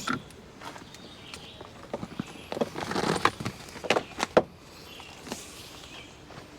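Scattered knocks and clicks with footsteps, typical of camping gear being handled and set down while unloading a truck; a cluster of them comes about halfway through.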